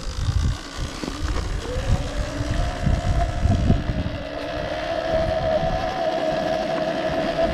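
Electric enduro motorcycle riding off: the motor's whine rises about two seconds in and then holds at a steady pitch, over low wind rumble on the microphone.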